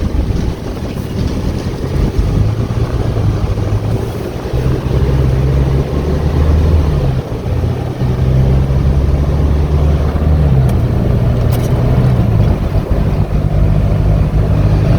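Hino 155 box truck's diesel engine pulling away and accelerating under load, its low engine note changing pitch a couple of times as the automatic transmission shifts, over road and tyre noise.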